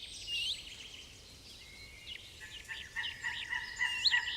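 Several small birds singing and chirping with short, overlapping whistled calls over a faint outdoor background. A steadier thin high note joins in about halfway through.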